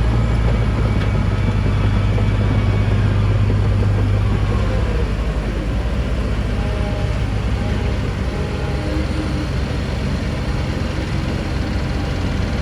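Heavy diesel engine of earthmoving machinery running steadily with a low hum, dropping a little in loudness about five seconds in.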